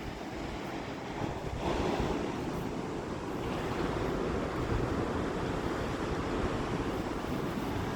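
Ocean surf: waves washing onto the shore in a steady rush that swells about two seconds in, with wind blowing on the microphone.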